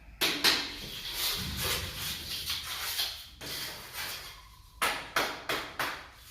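Tile setter's hand tools working a mortar bed on a floor: a run of uneven scraping strokes with a few sharper knocks and scrapes near the end.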